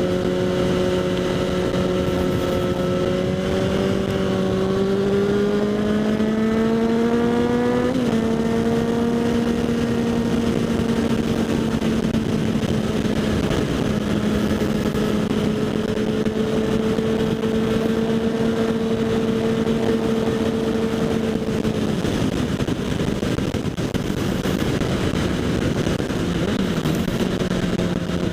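Kawasaki Z800 inline-four through a LeoVince SBK aftermarket exhaust, ridden on the road: the engine pulls with a rising pitch, drops sharply at an upshift about 8 seconds in, then holds a steady cruise before going off the throttle later on. Wind rush over the helmet-mounted microphone runs under it.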